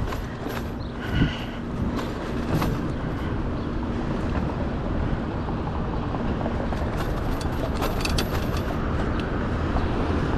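City street traffic heard from a moving bicycle: a steady rush of vehicle and road noise, with a few light clicks and a faint hum in the first half.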